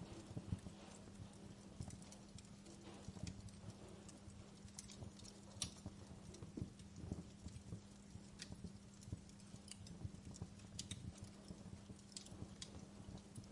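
Wood fire in a fireplace, crackling faintly with irregular sharp pops and snaps over a low rumble of burning, with a steady low hum underneath.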